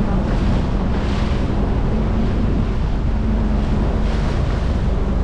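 Small speed boat underway: wind buffeting the microphone over a steady motor hum and the rush of water past the hull.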